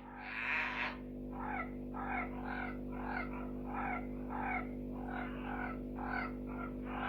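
Red-eyed tree frogs calling: one longer, noisier call at the start, then a run of short calls at about two a second.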